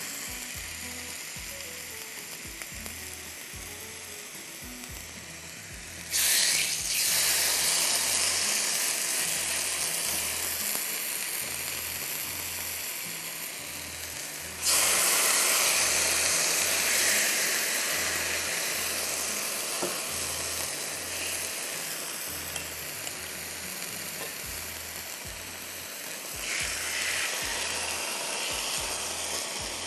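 Chicken breasts sizzling as they fry in a hot ridged grill pan. The sizzle jumps suddenly louder about six seconds in and again about fifteen seconds in, and rises a little near the end. Faint background music with a steady low beat plays underneath.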